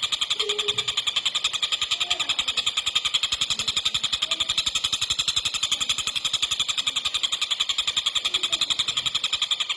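Tengkek buto, a kingfisher, calling in a fast, unbroken rattling trill: a tight run of high notes at about ten a second, held steady throughout.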